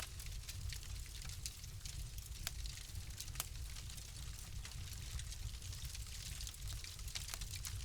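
Wood fire crackling in a fireplace: frequent small sharp pops and snaps over a soft hiss, with a steady low rumble beneath.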